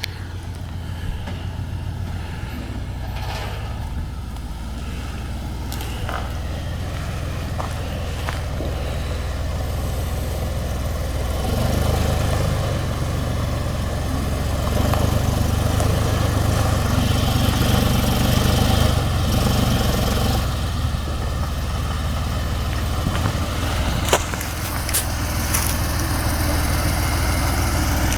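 Suzuki SJ 4x4's engine running at low revs in low-range gear as it crawls over a rocky trail, getting louder about halfway through. A few sharp knocks sound over it.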